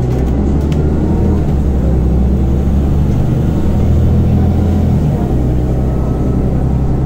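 Scania Omnicity city bus engine running under way, heard from inside the passenger cabin. Its low drone changes note about a second and a half in and again about five seconds in.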